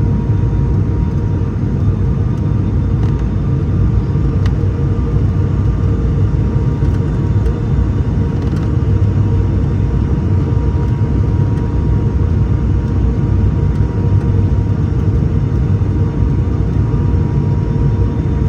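Steady cabin noise of an ATR 72-600 turboprop: a deep rumble with the even drone of its Pratt & Whitney PW127-series engines and propellers, including a thin steady whine, heard from inside the cabin.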